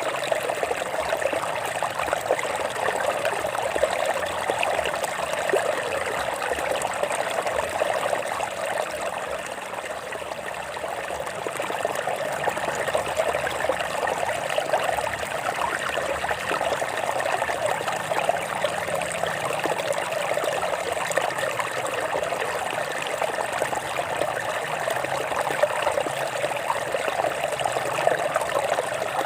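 Water running over rocks in a stream, a steady babbling and trickling, a little softer about ten seconds in.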